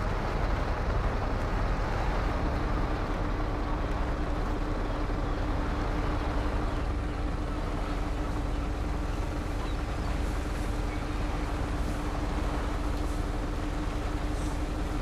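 Truck engine running with road noise while driving: a steady low rumble, joined about two seconds in by a steady hum.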